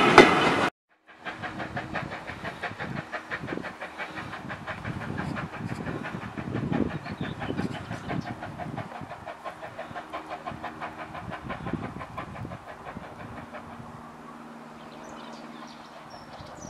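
A train's coaches rolling past close by, loud for under a second before cutting off suddenly. The heritage train is then heard running away along the line, an evenly repeating beat slowly fading, with a few birds chirping near the end.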